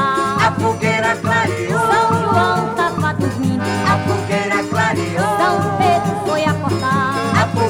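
Forró pé de serra instrumental passage: an accordion melody over the steady beat of zabumba drum and triangle.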